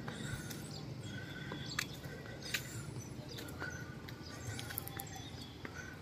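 Outdoor background of small birds chirping in short repeated calls over a steady low hum, with a couple of sharp clicks about two seconds in.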